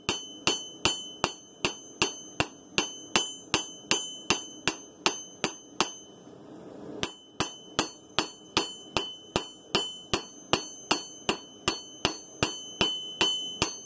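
Hand hammer striking a hot san mai steel blade billet on an anvil, about two blows a second, each with a short bright ring. The blows stop for about a second midway, then resume at the same pace.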